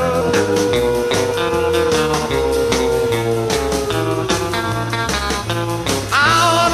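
Rockabilly band playing an instrumental passage: a lead instrument holds one long note that sags downward in pitch, over a repeating bass line and steady drum beat. A singing voice comes in near the end.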